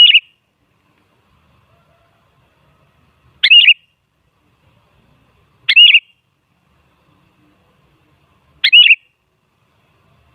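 Sooty-headed bulbul giving short, sharp calls, four in all, every two to three seconds, each a quick wavering note.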